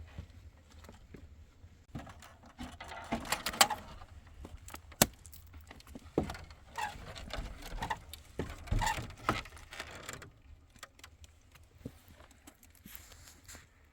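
Irregular knocks, clicks and rustling of things being handled, with a few sharper knocks and quieter after about ten seconds.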